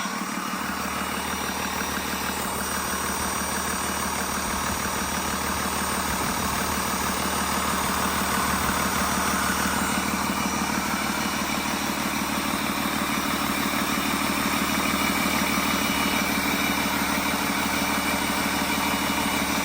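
Cummins ISB 6.7-litre inline-six turbo-diesel engine idling steadily.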